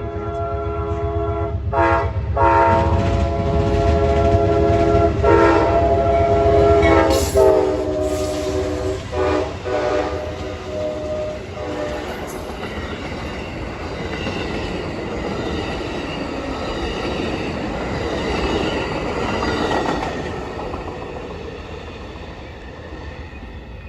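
A locomotive sounds its multi-note air horn in a series of blasts as the train approaches. The horn stops about halfway through, and the train rolls past with a heavy rumble and wheel clatter that fades near the end.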